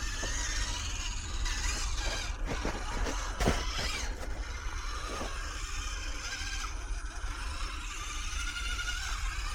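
Axial SCX24 micro RC crawler's small electric motor and gears whining, the pitch rising and falling with the throttle, with a few clicks and a knock about three and a half seconds in as it climbs over rock.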